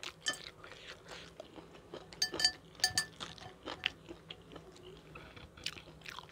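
Close-miked eating: chewing with many short crisp crunches, the loudest two about two and three seconds in.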